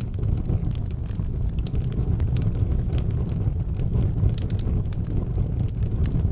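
Wood fire burning in an outdoor fireplace: a steady low rumble of the flames with a few sharp crackles and pops scattered through it.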